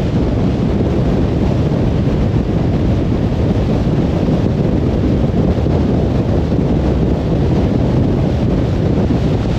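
Steady low rumble of tyre and wind noise from a car driving on a motorway, with no changes in level.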